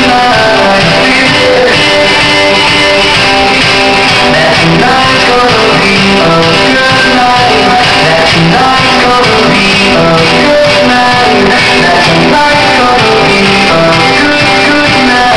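Loud guitar-led music with some singing, played through a car sound system with subwoofers and horn speakers.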